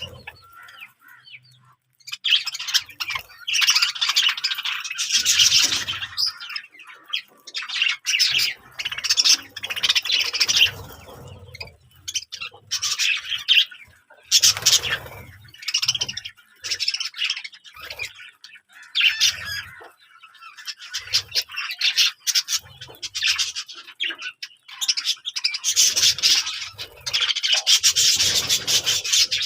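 Birds chirping and squawking in irregular bursts of high chatter, starting about two seconds in.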